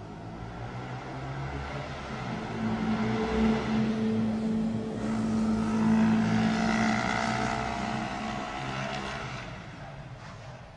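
A loud, low droning hum with a steady pitch swells to a peak about six seconds in and then fades. Near the middle a higher tone slides slowly downward.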